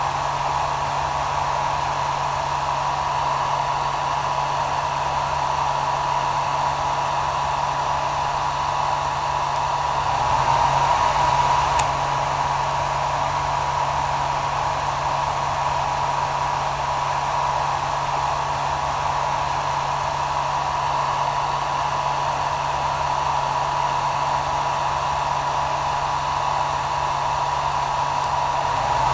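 Hair dryer running steadily: a constant airy rush with a steady whine through it. It swells slightly about ten seconds in, with a faint click a moment later.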